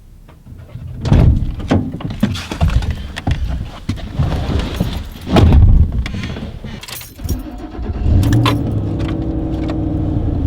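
Knocks and clatter of someone getting into a vehicle, then its engine starts about eight seconds in and runs steadily.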